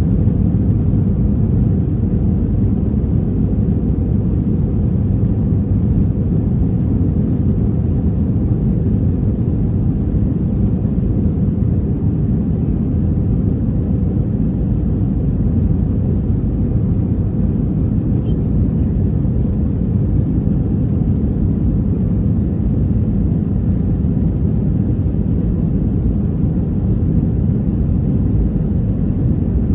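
Steady low rumble of an Airbus A321-200's engines and airflow heard inside the economy cabin, constant in level with no rise or fall.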